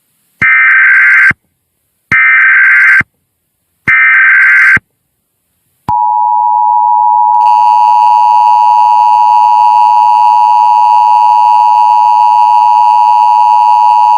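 Emergency Alert System header for a National Weather Service alert: three short bursts of warbling SAME data tones, each about a second long. Then the two-tone attention signal holds steady for about eight seconds and cuts off suddenly.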